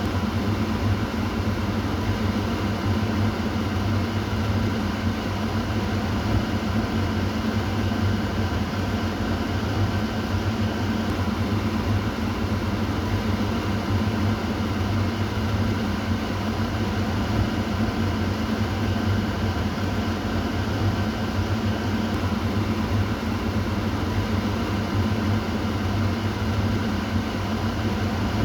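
Kitchen exhaust fan running steadily: an even rushing of air over a low hum.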